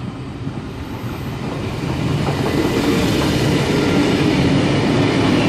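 Electric suburban train passing on the main-line track, its wheels clattering over the rails and getting steadily louder as it comes through.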